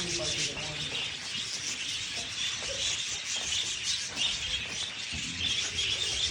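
A flock of budgerigars chattering: a dense, continuous stream of short chirps and warbles from many birds at once.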